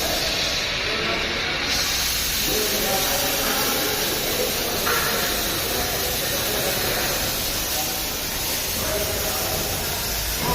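A steady hiss, with indistinct voices underneath.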